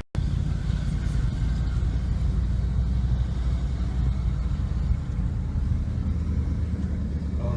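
Steady road and engine rumble heard from inside a moving car's cabin, with no change in pace.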